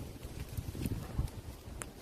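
Outdoor wood fire crackling: scattered sharp pops and snaps over a low, uneven rumble of burning, with a brief high squeak near the end.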